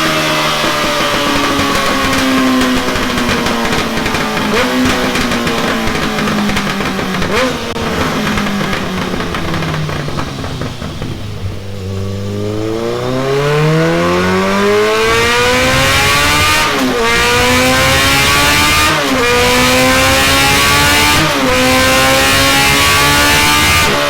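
Kawasaki ZRX inline-four engine running through a Delkevic oval carbon-fibre muffler. The revs fall slowly for about ten seconds, then the engine pulls hard with rising pitch. The pitch dips briefly three times in the second half, as at gear changes.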